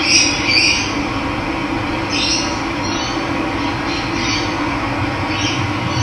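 Running water making a steady rushing sound, with birds giving short calls about six times over it.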